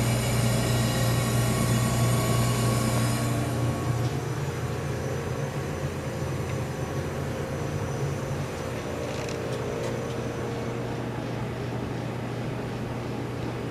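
GE CJ-1-C16 refrigerator's compressor running with a steady hum while the system is being charged with refrigerant, before refrigerant has begun circulating. A higher-pitched hissing sound that accompanies it cuts off about three and a half seconds in, leaving the hum alone.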